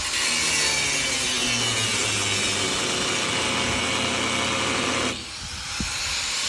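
A power tool cutting, running steadily with a motor hum for about five seconds. It stops briefly, then starts up again near the end.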